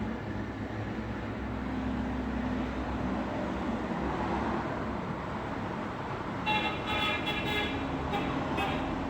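Steady road traffic rumble. About six and a half seconds in, a vehicle horn gives a run of short toots, four or five quick beeps lasting about two seconds.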